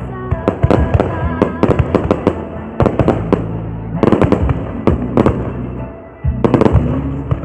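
Fireworks going off in quick, irregular bangs over music with a steady bass line, with a brief lull about six seconds in before the bangs pick up again.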